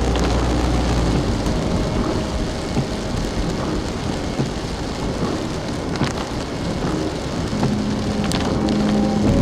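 Steady rain falling and pattering on surfaces, with scattered small drop ticks. A low steady hum comes in near the end.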